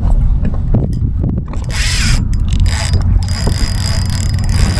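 Fishing reel ratcheting as it works against a hooked fish, a bright clicking buzz starting about two seconds in, over a low rumble of wind on the microphone.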